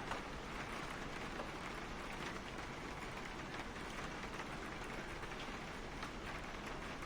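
Steady rain pattering on a car, heard from inside, with many small drop taps over an even hiss.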